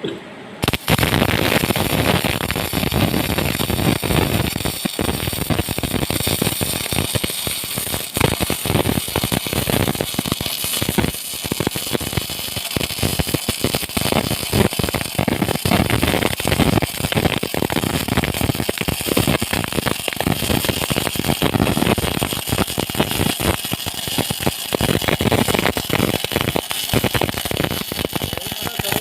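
Electric arc welding: the arc strikes just under a second in and then runs on with a dense, irregular crackling sizzle.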